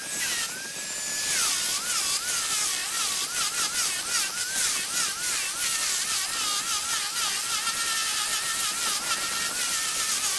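Small high-speed electric power tool running against wood, its whine repeatedly dipping in pitch and recovering as it bites into the work and eases off, with a continuous rasp of cutting throughout.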